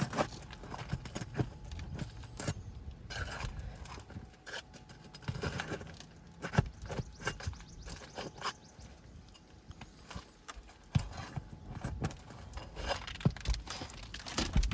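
Roofing pry tool working under asphalt shingles to pull nails: irregular scraping, clinks and knocks, with a few sharper knocks.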